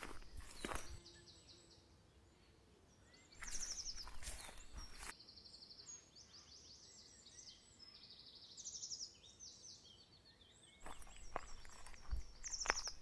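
Small birds singing in quick trills of repeated high notes throughout. Under them are footsteps in grass and the knock and scrape of rocks being picked up and carried, loudest near the start, around four seconds in and again near the end.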